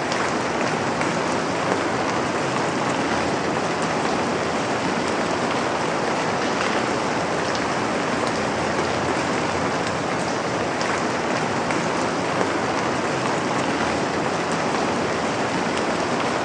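Steady rain falling: an even hiss with the patter of individual drops.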